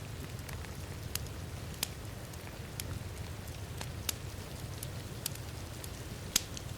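Wood fire crackling in a fireplace, with sharp irregular pops about once a second, the loudest a little before the end, over a steady low rush of heavy rain.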